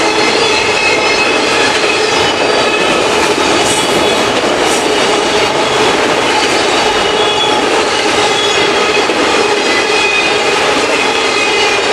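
Freight train of autorack cars rolling past at speed: a steady, loud rumble and clatter of steel wheels on rail, with thin high squealing tones from the wheels.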